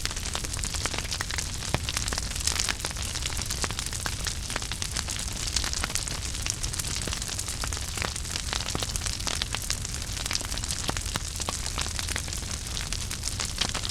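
Wood fire burning in a fireplace: a steady hiss and low rumble with many small crackles and pops throughout.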